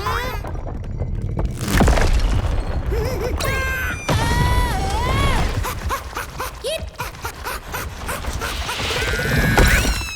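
Cartoon slapstick sound effects: a rapid string of crashes, thuds and smashes over a low rumble, mixed with short squeaky, sliding cartoon vocalizations.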